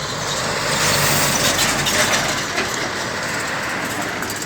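Airbus A320 jet passing by: a loud engine rush that swells to a peak a second or two in, then fades.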